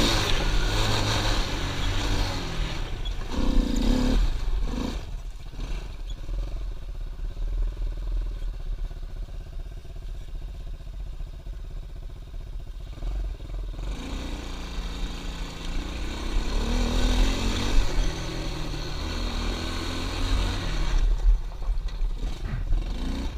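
Small pit bike engine running under throttle, its pitch rising and falling as it is revved and eased off. It quietens for several seconds in the middle, then picks up again.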